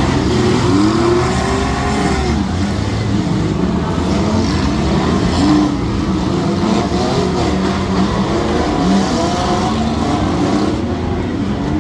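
Several compact demolition-derby cars' engines revving at once, their pitches rising and falling over one another in a continuous loud din.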